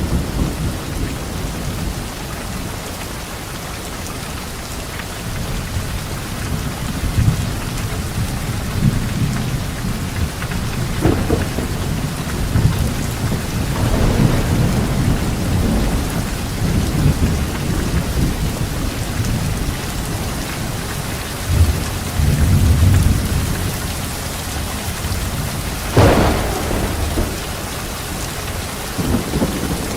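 Thunderstorm: steady heavy rain with repeated low rolling thunder, and a sharp thunderclap late on.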